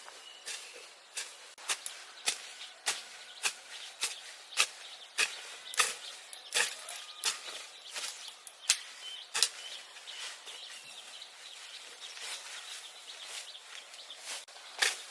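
A run of sharp knocks, one roughly every half-second to second for about nine seconds, then fewer and fainter, with one more loud knock near the end.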